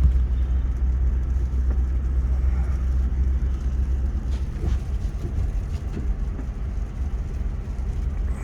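Car driving slowly through floodwater over the road: a steady low drone of the engine and tyres from inside the cabin, with a few short knocks about four to six seconds in.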